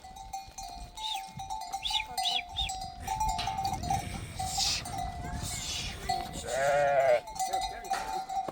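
Livestock bells ringing on a steady pitch, with a loud bleat from a sheep or goat about seven seconds in and a few short high chirps in the first few seconds.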